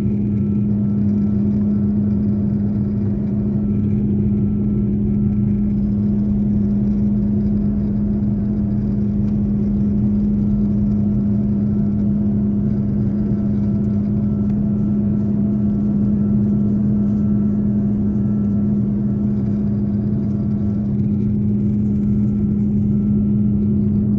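Airliner cabin noise in flight, from an Airbus A330: a steady engine and airflow drone with a constant low hum that does not change.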